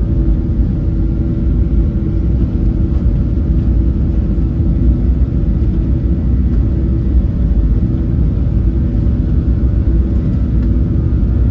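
Boeing 737 jet engines at takeoff power heard inside the passenger cabin: a loud, steady low rumble with a faint steady engine tone over it.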